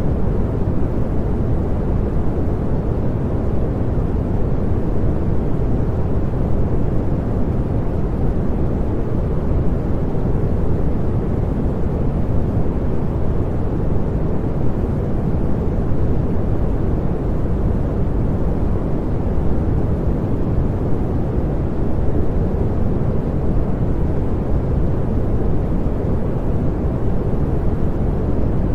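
Steady synthetic pink noise: an even, unchanging hiss, heaviest in the low range, with no breaks or changes.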